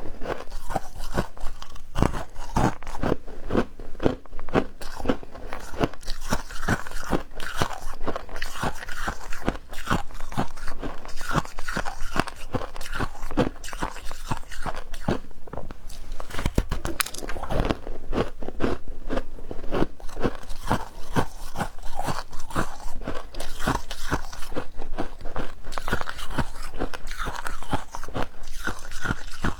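Humidifier ice being bitten and chewed in big bites: dense, continuous crunching, the squeaky ice cracking between the teeth.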